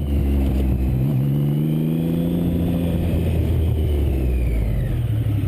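A motor vehicle's engine pulling under acceleration, its pitch rising gently for about three seconds and then holding steady, over a constant low road rumble.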